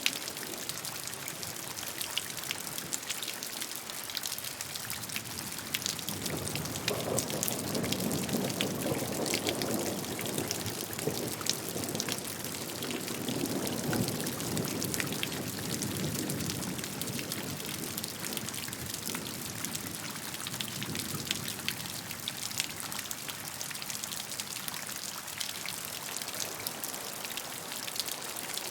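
Steady rainfall with many individual drops ticking on a surface. About six seconds in, a deeper rushing swell builds, peaks twice and fades away by about seventeen seconds.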